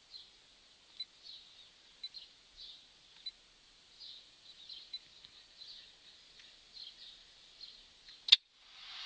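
A pause in the car-stereo music: faint, irregular high chirps, a single sharp click about eight seconds in, then the music fading back in.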